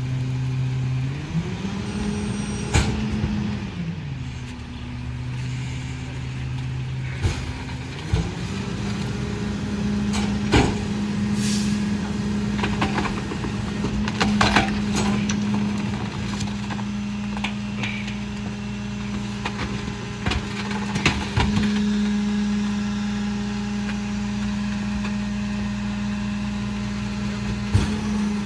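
Diesel engine of a Freightliner M2 McNeilus rear-loader garbage truck idling, then revving up to a higher steady speed twice, the second time holding there, typical of the throttle being raised to drive the packer hydraulics. Intermittent metal clanks and bangs run over it.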